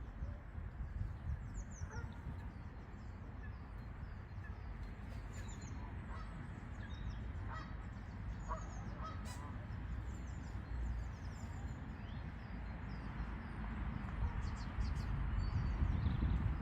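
Birds calling outdoors: many short, high chirps and a few lower honk-like calls over a steady low rumble.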